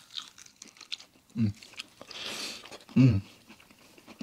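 Close-miked eating of fried chicken: chewing and crunching with small mouth clicks, and two short hummed vocal sounds, about a second and a half apart.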